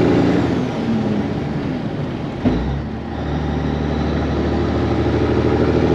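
Cabover semi truck's diesel engine running under way, heard from inside the cab, a steady pitched drone with a short thump and brief dip about halfway through.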